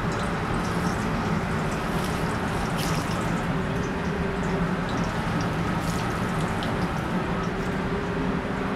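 Sirloin steak and potatoes sizzling and crackling in hot fat in frying pans on a gas range, over the steady hum of a kitchen exhaust hood.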